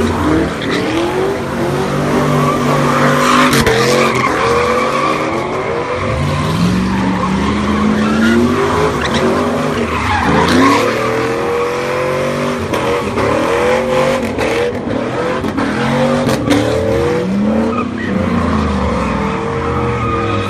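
Car engines revving up and down over and over while the tires screech and skid, the sound of cars doing burnouts and donuts at a street sideshow.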